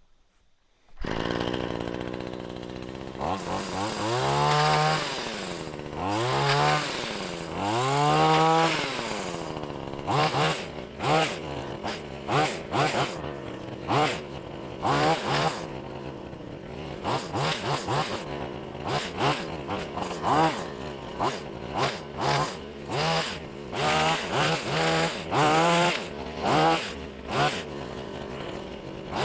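Wild Badger gas hedge trimmer's small two-stroke engine comes in suddenly about a second in, then is revved up and down repeatedly in short bursts while cutting through thick brush and vines.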